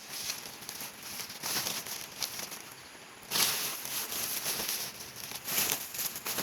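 Irregular rustling and crackling, louder about halfway through and again near the end, over a steady high-pitched hiss.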